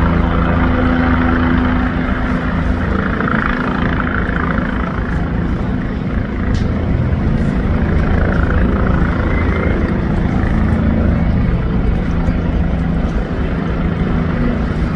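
Helicopter rotor and engine running loudly and steadily as it comes in to land, a continuous deep rumble.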